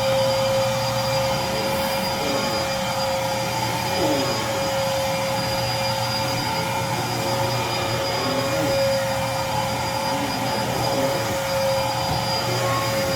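Dirt Devil Featherlite cyclonic bagless upright vacuum cleaner running steadily, its motor giving a constant whine over a rushing airflow.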